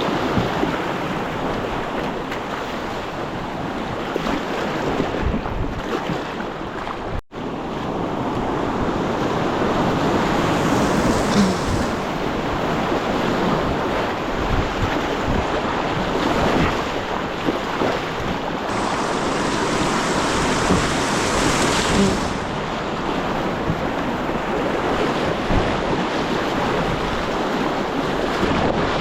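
River water rushing steadily through a rapid.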